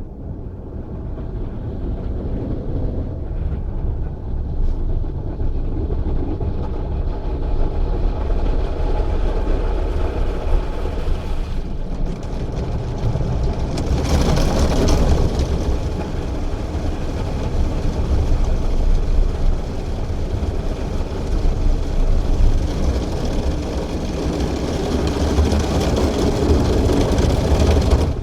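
Christ Auto-Jet C115 automatic car wash running its wash program, heard from inside the car: a loud, steady rumble of machinery and spray, with a harsher hiss for a couple of seconds about halfway through.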